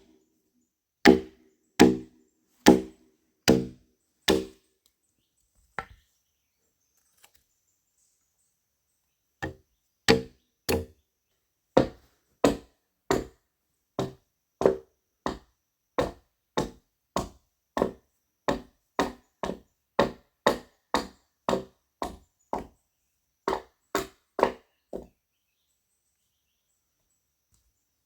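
Wood being chopped with a bladed tool in steady, regular strokes, a little under one a second. After the first few strokes there is a pause of several seconds, then a long run of strokes that stops a few seconds before the end.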